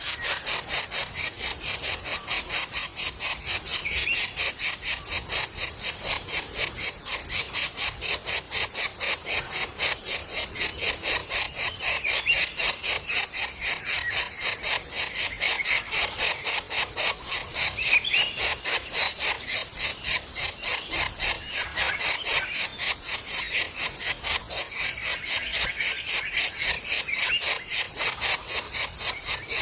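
An insect calling in a steady, fast rasping pulse, about four pulses a second, with faint brief chirps now and then.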